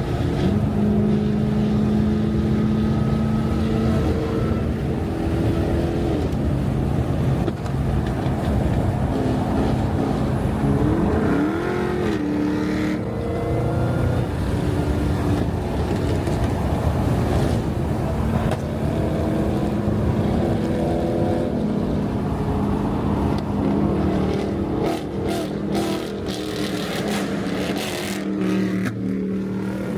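Car engine running steadily, its pitch rising and falling with the revs, with a clear climb about twelve seconds in.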